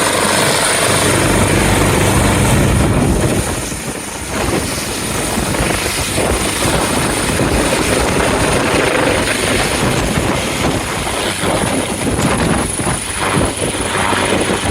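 Air ambulance helicopter lifting off close by, very loud: the thrum of its rotor blades over a steady high turbine whine, dipping briefly about four seconds in. Rotor downwash blows hard across the microphone.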